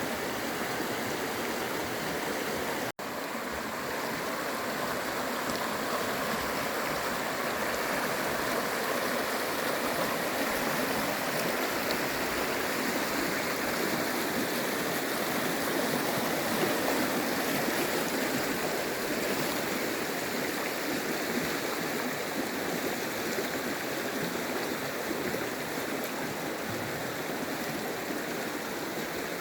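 Steady rush of water from a fast mountain stream, broken by a sudden momentary drop-out about three seconds in.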